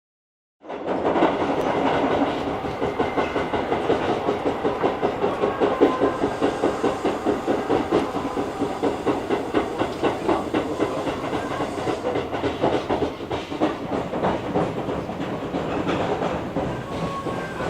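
Train running along the track, its wheels clattering over rail joints in a quick, regular rhythm. It starts suddenly about a second in.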